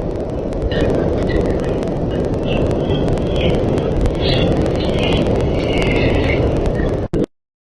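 Wild birds chirping in short, repeated high notes over a loud, crackling low rumble that drowns them out. Everything cuts off suddenly near the end.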